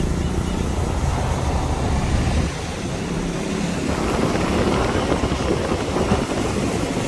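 Car driving: steady engine and road rumble heard from inside the car, easing a little about two and a half seconds in.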